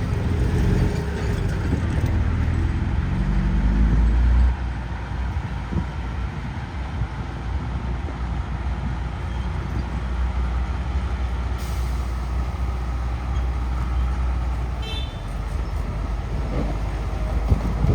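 Heavy diesel earthmoving machinery running: a deep engine rumble that is loudest for the first four and a half seconds, then drops to a steadier level. A brief hiss cuts in about two-thirds of the way through.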